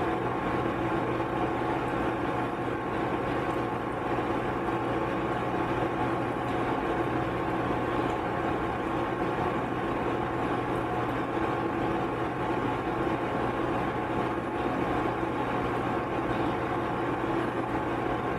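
Microwave oven running on high: a steady hum with a few held tones.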